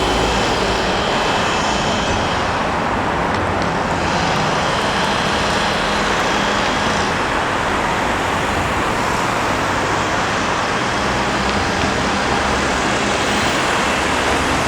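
Loud, steady rolling noise of a train passing close by, with faint high whining tones in the first few seconds.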